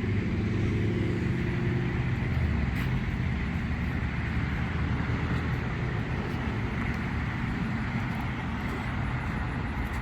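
Steady road traffic noise from passing cars, with a vehicle's low engine hum fading out in the first two seconds.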